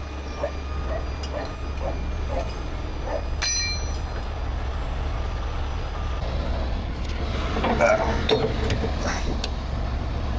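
Heavy truck engine idling with a steady low rumble, and a short metallic clink about three and a half seconds in.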